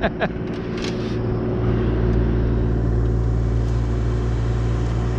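A large engine running steadily, a low drone that swells a little about a second and a half in and then holds.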